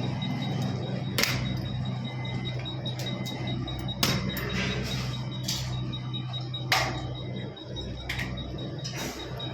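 A steady low hum with about six short, sharp knocks and clinks at irregular intervals, typical of metal fittings being handled.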